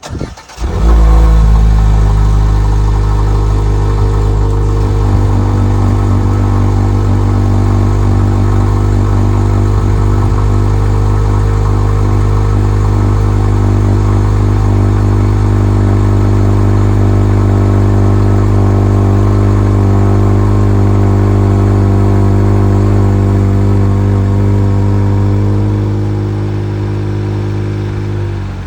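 Kia K5's 1.6-litre turbocharged four-cylinder engine, fitted with an aftermarket exhaust midpipe, starting up with a brief flare in revs and then idling steadily. The exhaust level eases off near the end.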